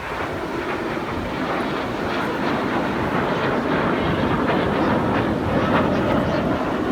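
Jet aircraft flying past with a broad roar that swells steadily, loudest near the end, then begins to fade.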